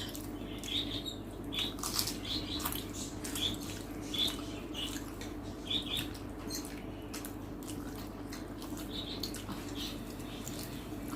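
Eating sounds of people eating rice and curry: scattered wet smacks and chewing clicks, over a steady low hum.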